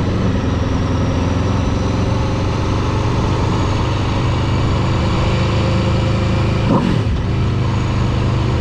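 Vehicle engine running steadily, with a brief falling sweep in pitch about seven seconds in.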